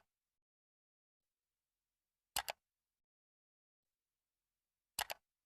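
Short, sharp double clicks, one pair about every two and a half seconds, in otherwise dead silence.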